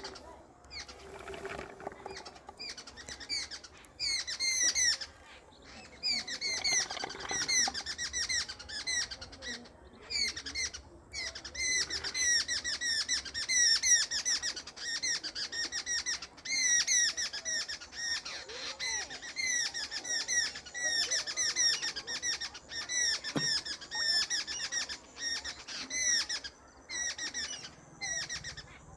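Birds chirping: rapid runs of short, repeated downward-sliding high chirps, starting about four seconds in and going on until near the end.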